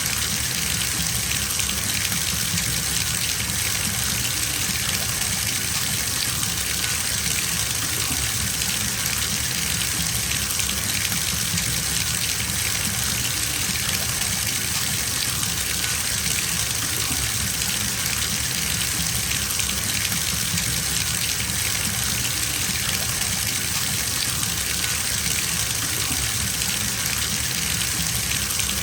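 Water running steadily from a bathtub tap into a filling tub, a constant even gush.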